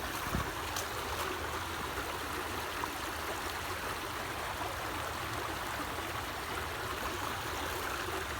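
Running water from a stream: a steady, even rushing hiss.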